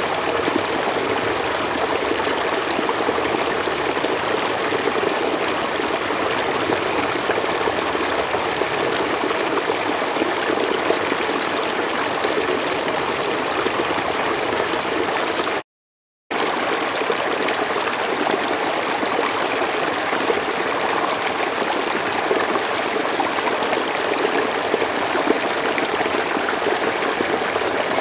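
River water flowing, a steady even rush. The sound cuts out completely for about half a second around the middle, then resumes unchanged.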